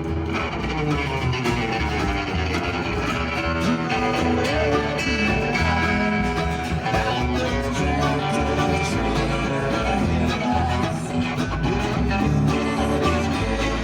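Live acoustic string band playing a country-bluegrass tune: strummed acoustic guitar, mandolin and upright bass, steady and continuous.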